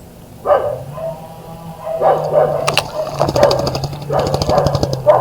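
A dog barking repeatedly in short, sharp barks, with a steady low hum underneath from about a second in.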